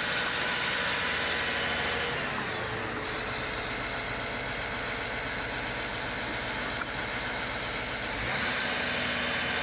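Heavy truck engine running, with a high whine over it. About two seconds in, the whine glides down in pitch and the engine eases slightly. Near the end the whine jumps sharply back up and the engine picks up again.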